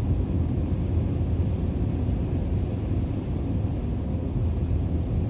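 Car driving along a snow-covered highway: steady low road and tyre rumble with engine noise.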